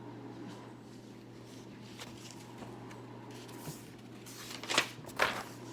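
Book pages being handled and turned: two quick papery swishes near the end, over a faint steady low hum.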